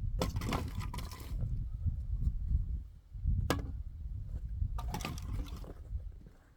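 Firewood being split by hand with an axe: a strike right at the start and a sharp one about three and a half seconds in, each with a second or so of clattering as the wood splits and pieces fall. A steady low rumble runs underneath.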